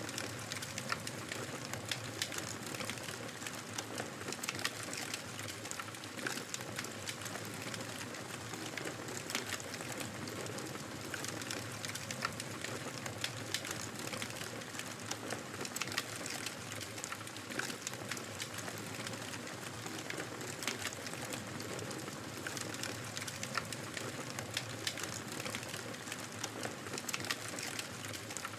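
Wood fire crackling steadily over a soft hiss, with many small sharp pops and snaps scattered throughout.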